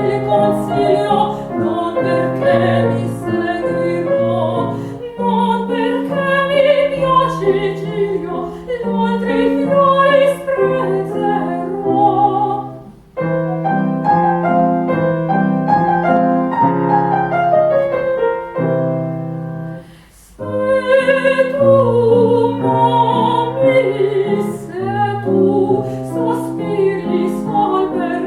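Classical vocal music: a female singer with grand piano accompaniment. The music breaks off briefly twice, near the middle and again about two-thirds of the way through.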